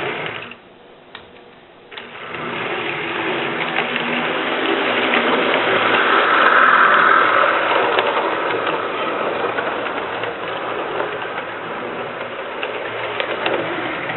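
A model train running on its track: the locomotive's small electric motor and gearing run with the wheels on the rails. The sound drops away briefly about a second in, then comes back and swells to its loudest about halfway through as the train draws nearest.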